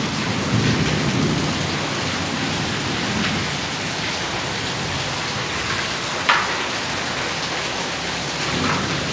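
Heavy rain falling steadily as an even hiss, with a single sharp tap about six seconds in.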